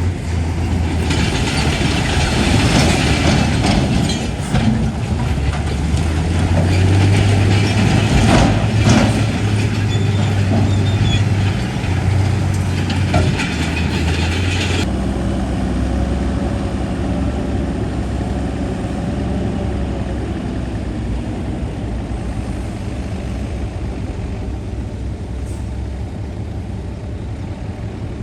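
Heavy diesel earthmoving machine, most likely a bulldozer, running under load, with grinding and clanking from tracks and rock and a few sharp knocks. About halfway through the grinding stops suddenly and the engine runs on more quietly.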